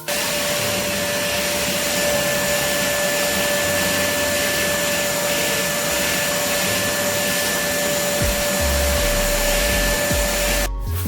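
Vacuum cleaner running steadily, a rushing noise with a high motor whine, cutting off suddenly near the end.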